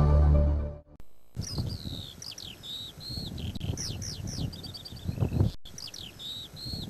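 Music fades out in the first second. Then songbirds chirp and whistle in quick, high phrases. After a brief dropout about five and a half seconds in, the same run of calls starts over.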